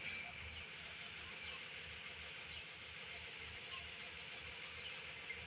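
Diesel engine idling at a distance: a faint, steady low throb.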